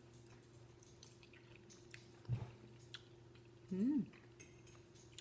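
Close mouth sounds of someone eating: faint wet chewing clicks, a short knock about two seconds in, and a brief hummed "mm" near four seconds.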